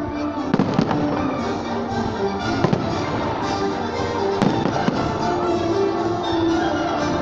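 Festive fireworks salute going off: repeated sharp bangs of shells bursting, several in the first few seconds, with crackle between them.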